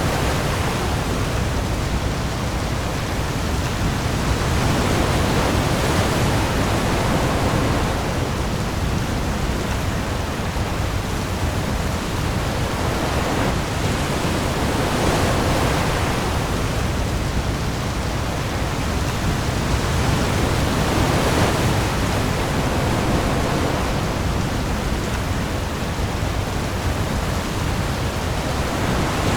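Heavy rain falling on the sea with ocean waves, a dense steady hiss that swells gently every few seconds, over a deep low rumble.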